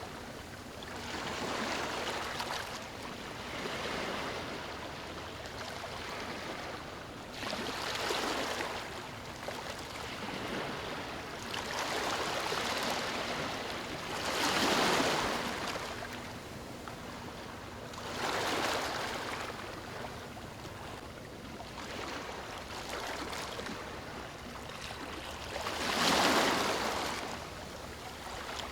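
Ocean waves breaking and washing up on a beach, rising in surges every few seconds, the strongest about halfway through and near the end.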